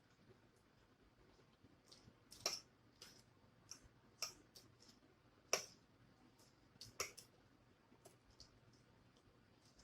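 Eating sounds close to the microphone: soft, scattered clicks and smacks of chewing, about a dozen at uneven spacing. The most distinct come about two and a half, five and a half and seven seconds in.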